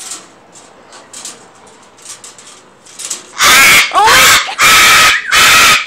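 Parrots screeching: four loud, harsh screeches in quick succession, hitting the top of the recording level, after a few seconds of softer high-pitched calls.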